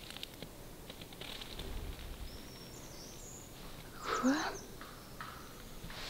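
Faint bird calls in a forest: thin high whistles, then one short, louder call with a rising pitch about four seconds in.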